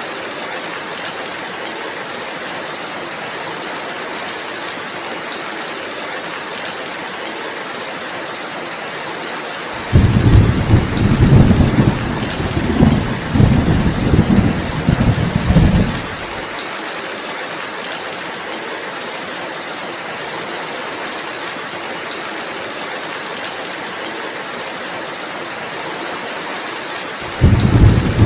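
Steady rainfall with a long roll of thunder starting about ten seconds in and rumbling for some six seconds. A second thunderclap breaks in just before the end.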